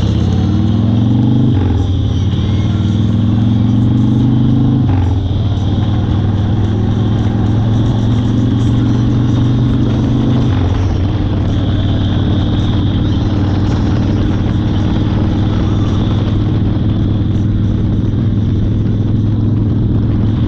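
1992 Harley-Davidson Fat Boy's 1340 Evolution V-twin accelerating through the gears: the engine pitch rises, drops at gear changes about one and a half and five seconds in, climbs again, and after a last shift about ten seconds in settles to a steady cruise.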